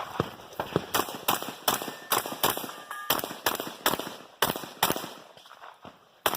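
Rock Island Armory VR-80 semi-automatic shotgun fired rapidly, about a dozen shots roughly three a second, then a pause and one more shot near the end.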